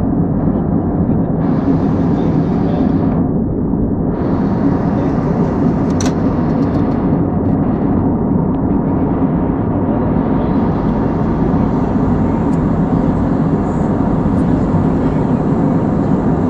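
Steady low roar of engine and airflow noise inside an airliner's passenger cabin in flight.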